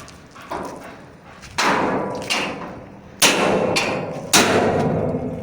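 Hammer blows in a welding workshop: a light knock, then three heavy blows, each ringing out and dying away over about a second.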